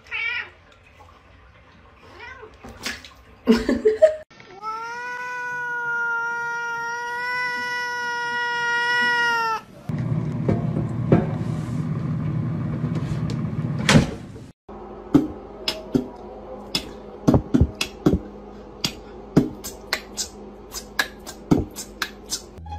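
Domestic cats meowing, with one long, drawn-out meow of about five seconds, held at a steady pitch. In the second half there is a run of sharp clicks.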